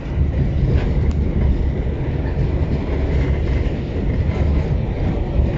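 New York City subway train running along the track, heard from inside the car: a steady low rumble with a few light wheel clicks about a second in.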